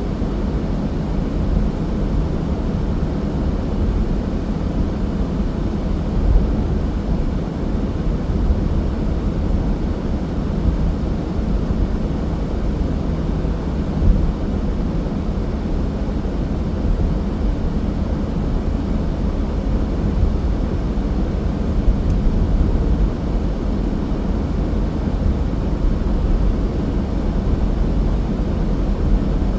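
Car driving steadily on a winter road: an even low rumble of road and engine noise that keeps a constant level throughout.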